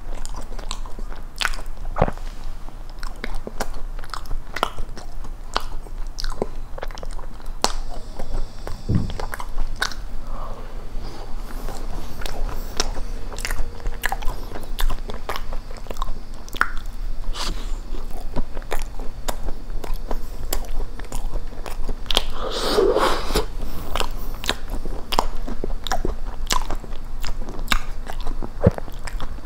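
Close-miked biting and chewing of a blueberry cookie cheesecake, the cookie crust crunching, with many small clicks from the mouth throughout. A short louder mouth sound comes a little past two-thirds in.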